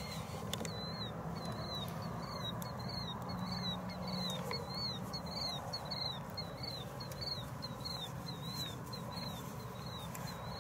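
A steady series of short high chirps, about two a second, each arching slightly down in pitch, from a small animal, over a low background hum.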